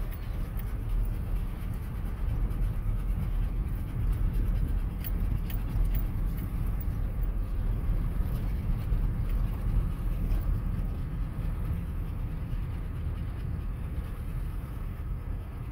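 Steady low road rumble of a pickup truck driving.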